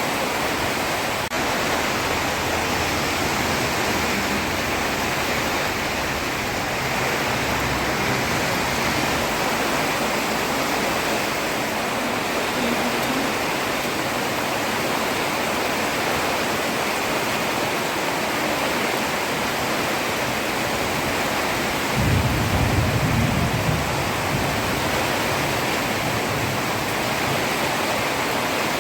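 Heavy rain falling on a road, a steady dense hiss. About three-quarters of the way through, a brief low rumble swells for a couple of seconds.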